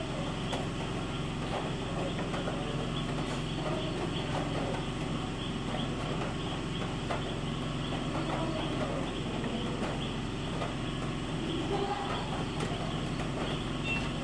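Steady rain, a continuous even hiss with a low hum underneath.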